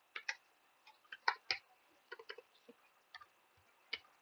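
Computer keyboard keys being typed: about a dozen short, irregular clicks, some in quick runs of two or three.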